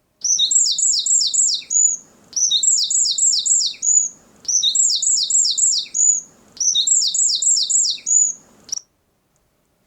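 Field recording of a songbird singing the same short phrase four times, about two seconds apart. Each phrase is a quick run of about five high, falling notes ending on a brief held note, with faint low background noise beneath. The recording was clipped and has been recovered and brought back down, and the song is clear and well defined.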